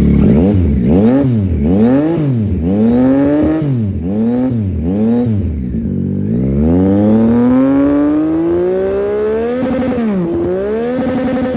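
Yamaha MT-09 SP three-cylinder engine, breathing through a loud, de-catted Austin Racing exhaust and an open airbox filter, revved hard. It gives a run of about six quick blips, then one long rev climbing for about three seconds, dips, blips once more, and drops back near the end.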